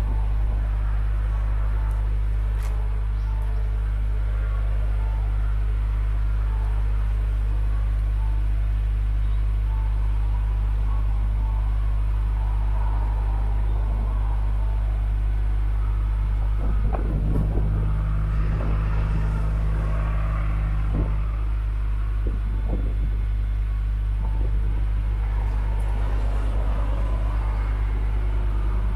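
Subaru flat-four engine idling steadily through an aftermarket EXAS EVO Tune exhaust during a cold-morning warm-up, a deep low rumble from the muffler.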